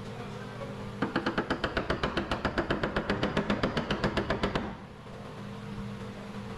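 A rapid, even run of sharp clicks or knocks, about ten a second, starting about a second in and stopping after nearly four seconds, over a steady low hum.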